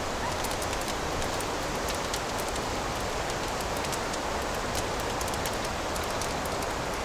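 Wood fire in a fireplace burning with a steady hiss and many small, irregular crackles and pops.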